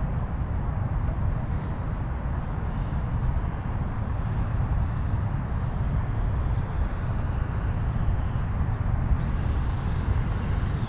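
Electric ducted-fan RC jet with an 80 mm fan, on its landing approach, a high whine over a steady low rumble; the whine grows louder and stronger from about nine seconds in as the jet comes closer.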